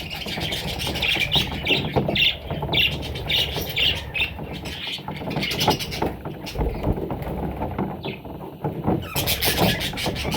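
Parrot chicks calling in short, repeated squawks, a few each second, that thin out past the middle and pick up again near the end.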